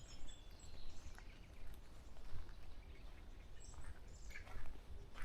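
Wild forest birds giving scattered short, high chirps and calls, over a steady low rumble.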